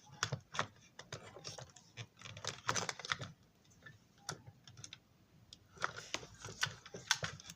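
Irregular light clicks and taps of a screwdriver and small plastic model-car parts being handled, coming in a few quick clusters.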